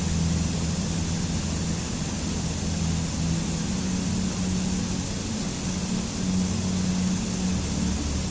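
Steady rushing water noise with a low hum underneath that shifts pitch at the start and again near the end.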